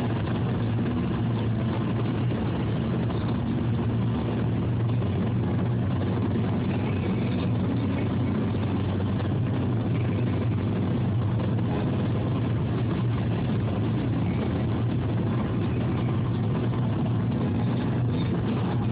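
Steady drone of a car driving: engine hum and tyre-on-road noise heard from inside the cabin, unchanging throughout.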